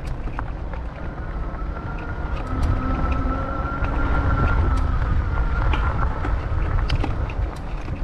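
Wind buffeting the microphone during a bicycle ride, a dense low rumble, with scattered clicks and rattles from the bike and a thin whine that swells and fades over the middle few seconds.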